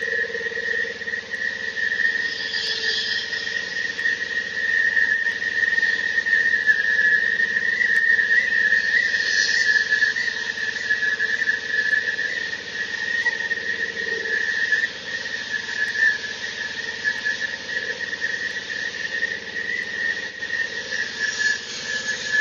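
Diesel-engine floor saw running, a steady high whine over a continuous hiss.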